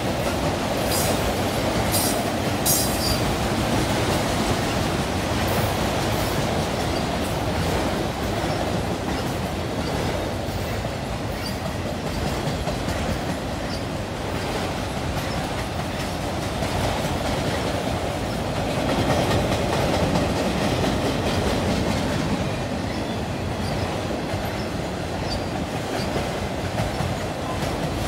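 Freight train of multi-level autorack cars rolling steadily past: the continuous rumble and clickety-clack of steel wheels on rail, with a few brief high-pitched wheel squeals about one to three seconds in.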